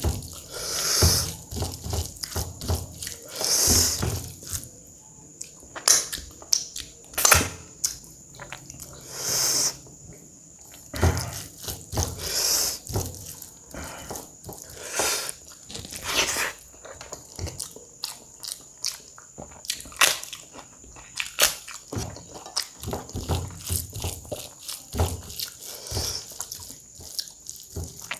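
Close-up eating sounds: a person chewing and biting big mouthfuls of rice and curry, with wet mouth smacks and occasional crunches, in irregular bursts.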